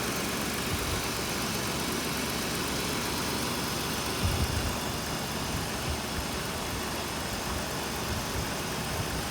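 2005 Jeep Grand Cherokee's 3.7 liter V6 engine idling steadily, with a brief low thump about four seconds in.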